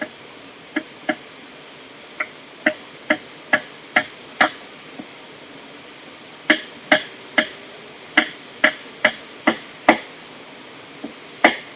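A hand tool striking repeatedly, sharp blows about two a second in runs of several strikes with short pauses between, over a steady background hiss.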